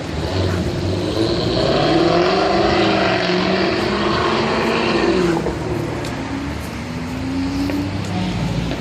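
Performance car engine revving and pulling away, with the pitch rising and falling through the gears. It is loudest in the first half and drops off about five seconds in, then a quieter engine's pitch climbs near the end.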